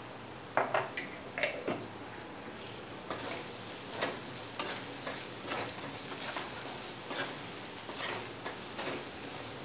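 Onion-tomato masala sizzling in oil in a metal kadai while a steel spatula stirs it, the masala fried until the oil separates. A few sharp clinks of the spatula on the pan at first, then scraping strokes about twice a second over the sizzle.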